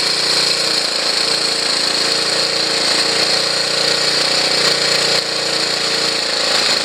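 Honda CT110's small single-cylinder four-stroke engine idling steadily, its revs and pitch dropping as the carburettor's idle speed screw is wound down, with a step down about five seconds in.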